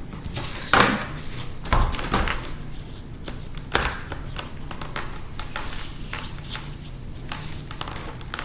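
A 2006 MacBook's casing being pried apart by hand: irregular sharp clicks, small knocks and scrapes of tool and fingers on the laptop's parts, a few seconds apart to about one a second.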